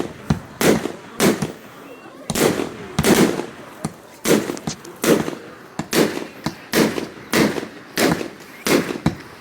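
Fireworks going off in a rapid barrage, a loud bang roughly every half second, each trailing off in a short echo.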